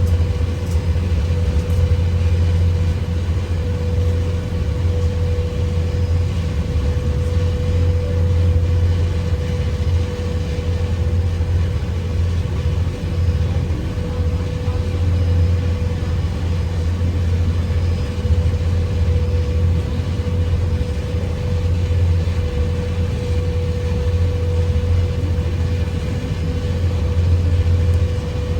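Steady low engine rumble with a constant mid-pitched hum, unchanging throughout.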